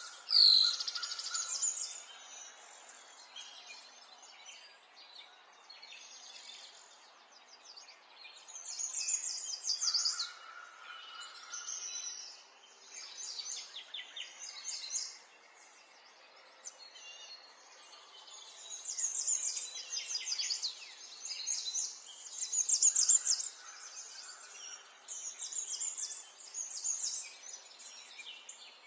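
Several songbirds singing and chirping in repeated bouts of high trills, over a faint steady background.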